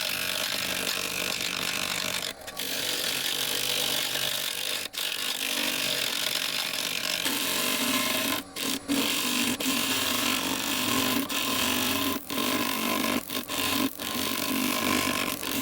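Wood lathe with a tool held against the spinning resin-filled driftwood. A steady hiss is broken by short gaps where the tool comes off the work, and a lower hum joins in about halfway through.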